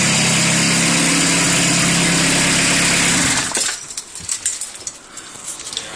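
Freshly rebuilt Citroën BX 1.9-litre four-cylinder diesel engine running steadily, then shut off about three and a half seconds in. A few light clicks and knocks follow.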